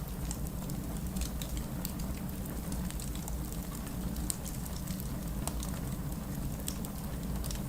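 Fireplace crackling with scattered sharp pops over steady rain, one louder pop about four seconds in.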